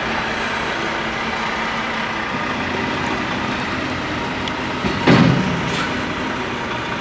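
Semi truck's diesel engine running steadily as it backs up, with a short louder burst of sound about five seconds in.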